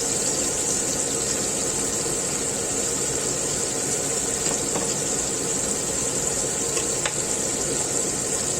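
Flour-battered chicken pieces frying in hot oil, a steady sizzle.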